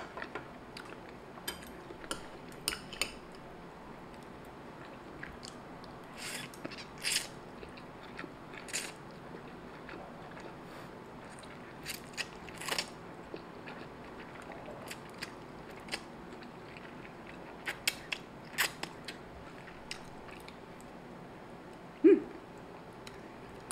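Close-miked chewing and mouth sounds of someone eating fried instant noodles: scattered wet smacks and clicks, with short clusters as mouthfuls of noodles are sucked in off the chopsticks, and a brief hum of approval near the end.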